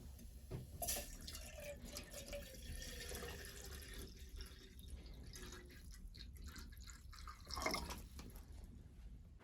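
Water dripping and trickling in a series of small splashes, with a louder gurgling pour near the end.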